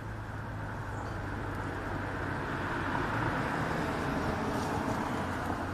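A road vehicle going by: engine hum and tyre noise that swell gradually and ease off near the end.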